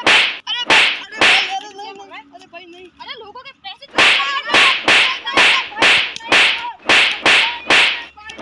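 Punch-and-slap fight sound effects, hit after hit. Three blows come near the start, then a pause with a faint voice, then a fast volley of about eleven blows, two to three a second, from about halfway through.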